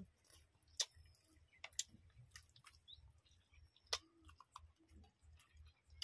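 People eating rice and chicken curry by hand: quiet chewing with sharp mouth clicks and smacks, the loudest about a second in and just before four seconds in.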